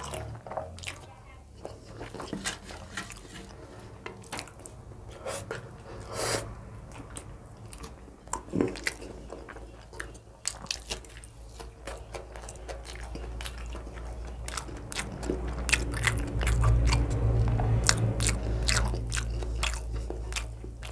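Close-miked eating: a person chewing and biting, with many crisp crunches and wet mouth clicks, from a meal of rice, dal, bean fry and fried aubergine. A low rumble swells under the chewing over the last few seconds.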